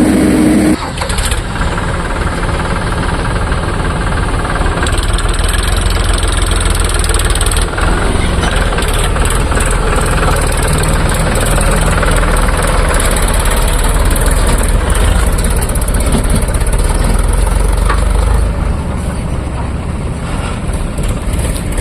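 Heavy diesel engine running under load with a deep rumble. It grows heavier about five seconds in and eases off about three seconds before the end.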